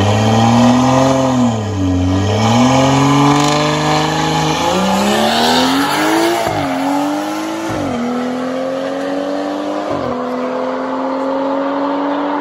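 A car engine revving, then accelerating hard through the gears: its pitch climbs and drops sharply at each upshift, about four times.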